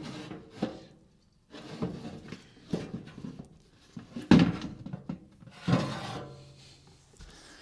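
Water bucket of a General Electric dehumidifier being slid out of its housing and handled: a string of scrapes, rubs and knocks, the loudest a little past four seconds in.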